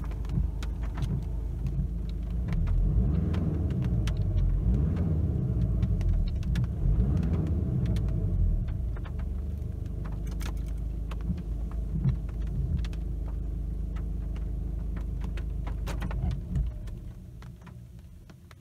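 Volkswagen Golf Mk7 GTD's four-cylinder turbodiesel idling, heard inside the cabin, with scattered clicks. About sixteen seconds in the engine is switched off and the sound dies away.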